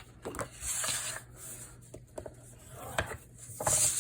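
Sheet of paper being scored on a scoring board: two short scraping swishes of the stylus drawn along the groove, about a second in and near the end, with paper rustle and light taps in between.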